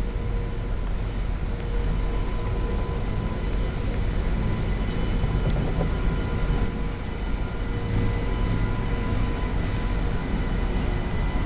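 Rail equipment running: a steady low rumble with faint steady whine tones, and a short hiss about ten seconds in.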